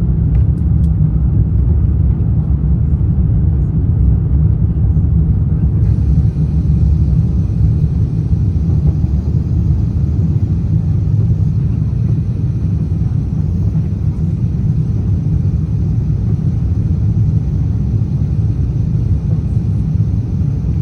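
Airbus A350-900 cabin noise heard from an economy window seat: a steady, loud low rumble of engines and airflow. About six seconds in, a fainter steady hiss joins it and stays.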